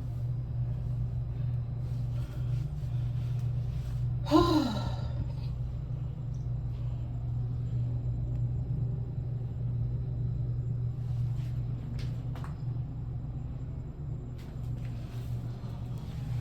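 A steady low hum runs throughout. About four seconds in, a woman lets out one short sigh-like vocal sound that falls in pitch.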